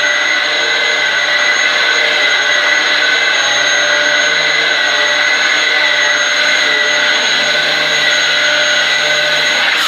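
Dyson DC07 bagless upright vacuum cleaner running steadily while vacuuming carpet: a loud, even motor whine with several steady high tones over the rush of air.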